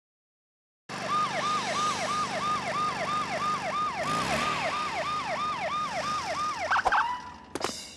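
About a second of silence, then a cartoon police car siren sounding in quick repeated falling sweeps, about three a second, for some six seconds. It stops near the end, and a few short clicks follow.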